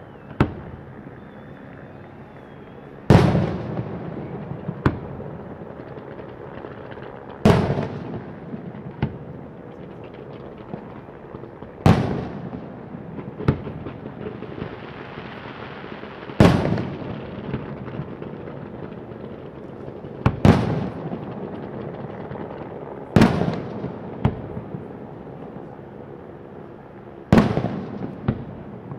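Fireworks going off over the river: a loud bang about every four seconds, each rolling off with an echoing rumble, with smaller single pops in between.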